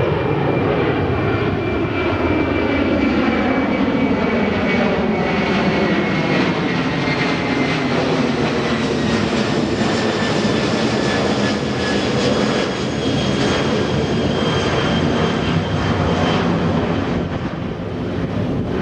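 Jet airliner passing close, the loud rumble and whine of its engines sliding slowly down in pitch as it goes by.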